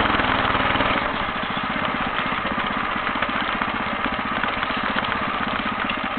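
Homemade motorcycle's engine running under way; it is revved high, then eases off about a second in to a lower, pulsing run.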